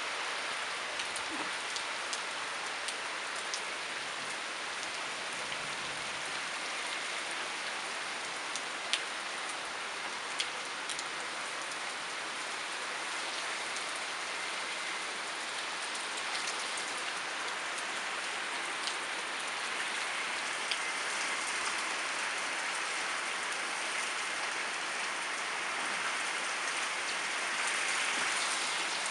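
Heavy rain falling steadily, a dense even hiss with a few sharp ticks here and there; it grows a little louder near the end.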